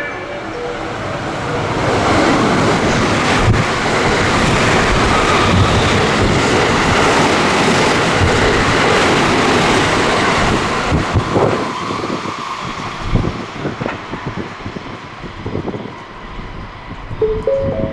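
Train passing through a station without stopping: the rush of wheel and rail noise builds over the first couple of seconds, holds for about ten seconds, then thins into separate wheel clicks over the rail joints. Near the end a short rising platform chime begins.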